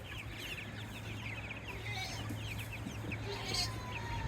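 A crowded flock of young chickens peeping, many short high falling chirps overlapping without pause, over a steady low hum.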